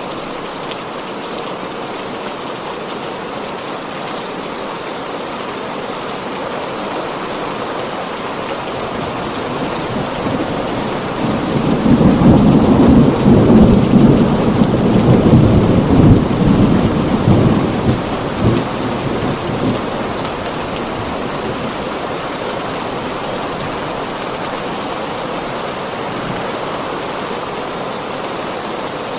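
Heavy rain falling steadily, with a long rumble of thunder that builds about ten seconds in, peaks as the loudest part, and dies away over several seconds.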